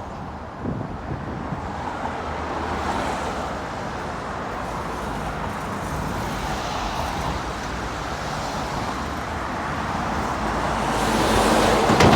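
Road traffic passing on a busy road, a steady rush of tyres and engines, with a vehicle drawing closer and growing louder near the end.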